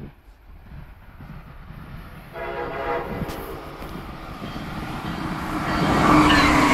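Train horn sounding about two seconds in, followed by the rumble of an approaching train growing steadily louder.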